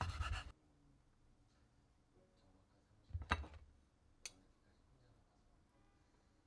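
A short rustle at the start, then a sharp knock about three seconds in and a lighter click about a second later.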